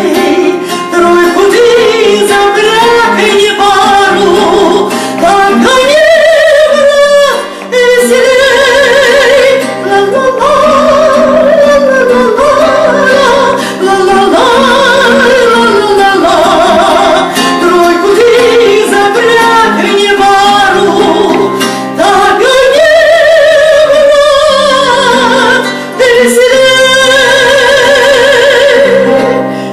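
A woman singing a song with wide vibrato over instrumental accompaniment, with short breaths between long held phrases.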